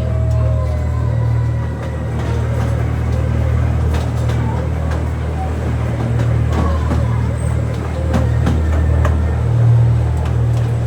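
Narrow-gauge zoo train running, heard from aboard: a steady low drone of the locomotive and cars on the move, with occasional short clicks and knocks.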